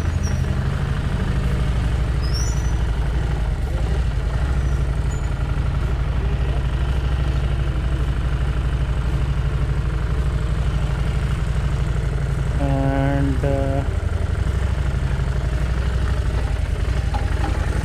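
Harley-Davidson Street Rod 750's V-twin engine running with a steady low engine note, with a short two-part tone partway through.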